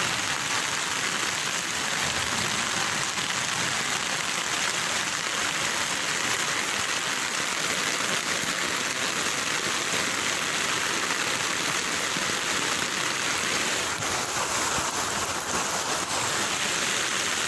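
Heavy rain falling steadily onto a flooded street: a constant, even hiss.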